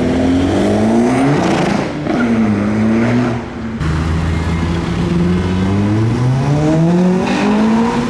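Car engine revving hard as it accelerates away, its pitch climbing in repeated upward sweeps, with a short drop about two seconds in and a long rising pull through the second half.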